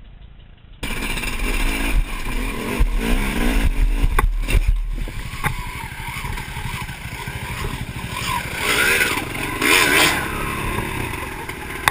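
Dirt bike engine running and revving, with scattered knocks and shouting voices; it starts abruptly about a second in.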